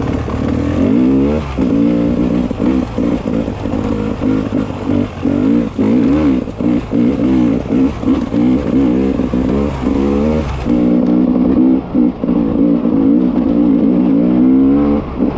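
Beta 300 RR two-stroke enduro motorcycle engine ridden on and off the throttle, its note rising and falling with frequent brief drops every second or so.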